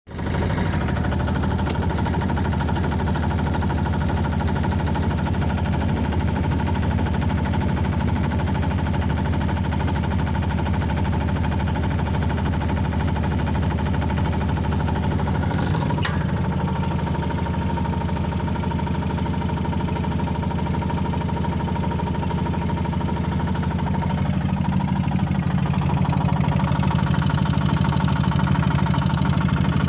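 An engine or motor running steadily. There is a click about 16 seconds in, and the sound grows a little louder near the end.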